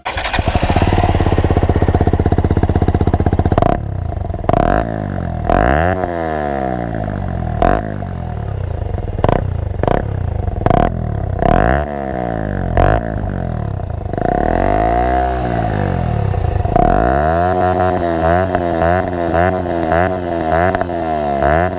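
KTM Duke 125's single-cylinder four-stroke engine breathing through a Sebring KTM Powerparts exhaust with a modified dB-killer, revved while stationary. It runs steadily for a few seconds, then is blipped about eight times, the pitch rising sharply and falling back each time, and near the end it is blipped in quick succession.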